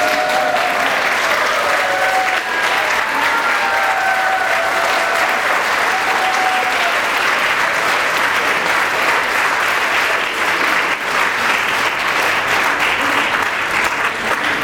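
Audience applauding steadily, with a few drawn-out cheers over it in the first several seconds.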